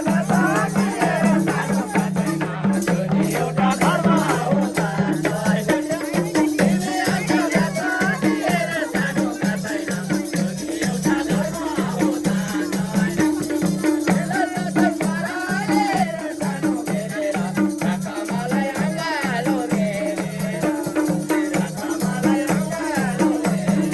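Nepali dohori folk music played instrumentally: a hand drum keeps a fast, even rhythm under a wavering melody line, with a shaker-like rattle.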